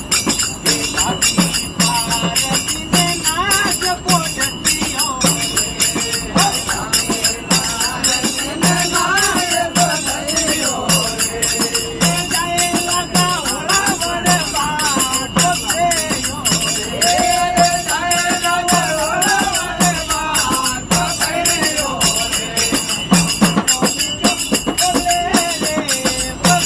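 Group of voices singing a Hindu bhajan, kept in time by steady fast jingling of hand cymbals and a regular drum beat.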